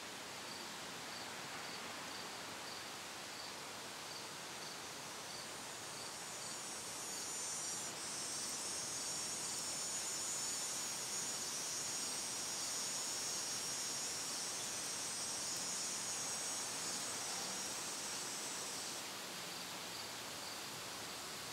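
Rural ambience of insects: a faint high chirp repeats about twice a second over a steady hiss. About seven seconds in, a louder high shrill insect trill sets in and holds, then cuts off suddenly near the end.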